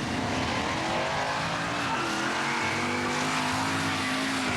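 Monster truck engine running hard: its note shifts and dips about two seconds in, then holds a steady pitch.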